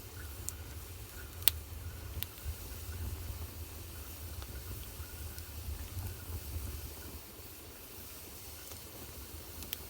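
Wood fire burning in a fireplace: a steady low rumble and hiss with a few sharp crackles and pops, the loudest about a second and a half in.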